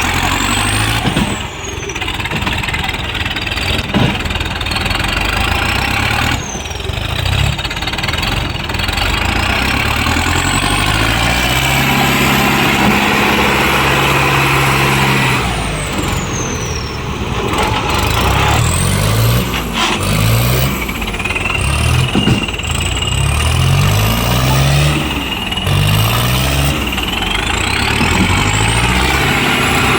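4455 BT tractor's diesel engine running hard under load in a tractor pull, with its pitch rising and falling repeatedly in quick revs during the second half.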